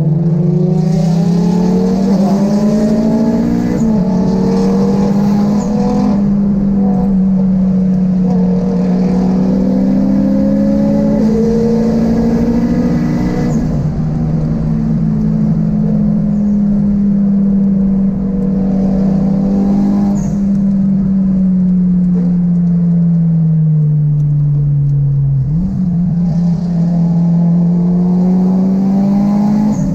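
A turbocharged Honda Civic EK3 VTEC engine heard from inside the cabin, its revs rising and falling slowly with the throttle. Near the end the pitch jumps sharply upward, as on a downshift.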